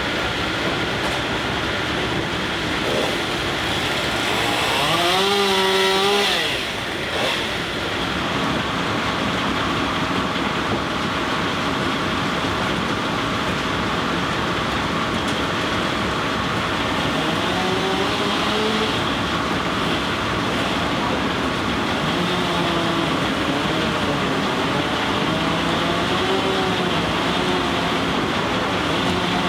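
Steam-powered sawmill machinery running with a steady mechanical din. A pitched whine rises briefly about five seconds in, and wavering pitched tones come and go through the second half.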